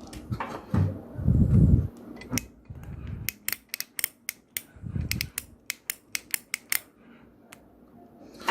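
Handling noise at a repair bench: a few dull knocks, then a quick run of sharp clicks and light taps from tools and parts being handled during soldering work on a microwave's control board.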